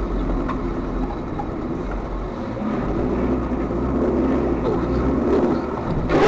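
Steady engine and road noise of a moving car, with a sudden loud noise right at the end.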